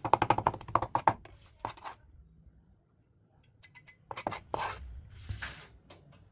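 Kitchen food-prep sounds: a fast run of knife strokes on a cutting board that stops about a second in, then after a pause a few clinks and short scraping sounds.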